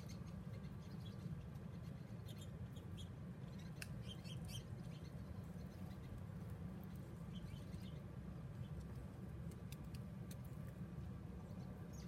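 Small birds chirping faintly in short, high calls, in two spells a couple of seconds in and again in the second half, over a steady low rumble.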